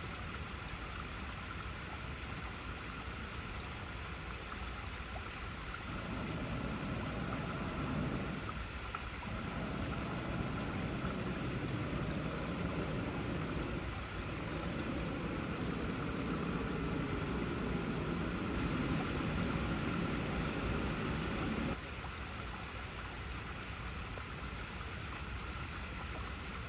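Water flowing steadily over rocks in a continuous rushing hiss. A deeper, louder rumbling layer joins about six seconds in and stops abruptly a few seconds before the end.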